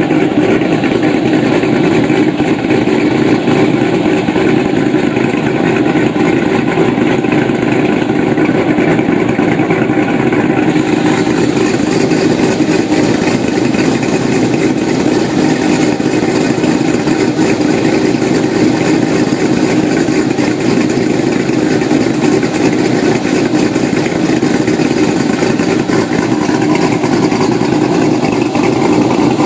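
Car engine running steadily, heard from underneath the car beside the crankcase breather catch can during a blow-by test. Its pitch holds level, with more hiss coming in about a third of the way through.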